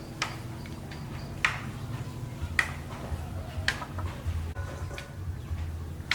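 A series of sharp knocks or clicks, about one a second, over a steady low hum.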